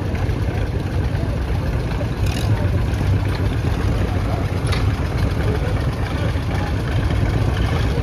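John Deere 50's two-cylinder engine running steadily with a low, even rumble.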